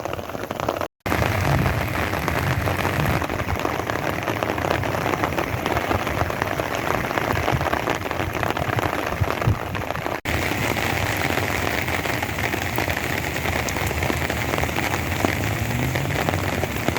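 Steady rain falling, heard as a continuous even hiss of drops, broken by a moment of silence about a second in.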